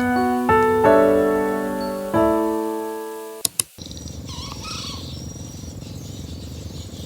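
Gentle background piano music that stops about three and a half seconds in with a couple of sharp clicks, then steady ambient hiss with a few faint chirps.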